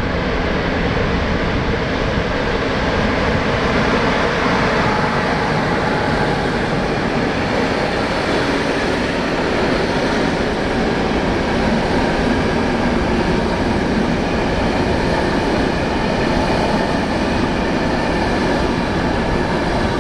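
Passenger train passing close by: a steady, loud noise of wheels running on the rails.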